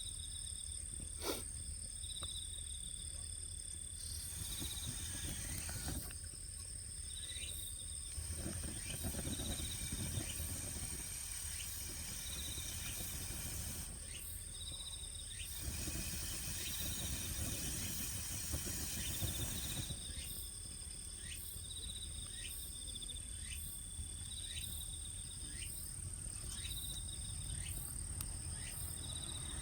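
Insects chirping outdoors: a steady high buzz with short chirps repeating every second or two, over a low background rumble and patches of hiss. A single sharp click sounds about a second in.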